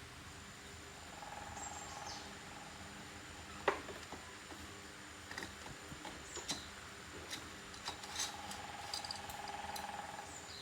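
An insect trilling in two spells over a faint steady hum, with scattered light clicks and taps; the loudest click comes about three and a half seconds in.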